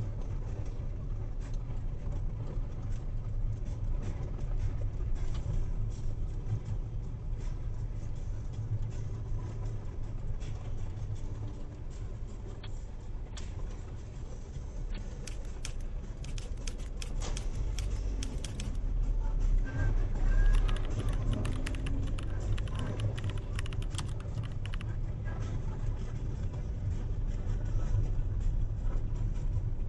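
Car driving at low speed, heard from a dashcam inside the cabin: a steady engine and road rumble with frequent small clicks and rattles. About two-thirds of the way through it grows louder for a few seconds, with an engine note that shifts in pitch.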